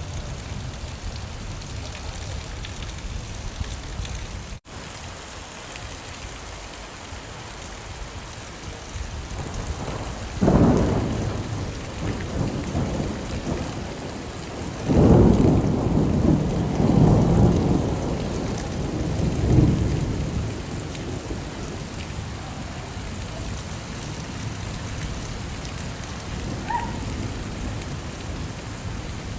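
Steady rain falling, with thunder rumbling: a short rumble about ten seconds in and a longer rolling one from about fifteen to twenty seconds in. The rain cuts out for an instant a few seconds in.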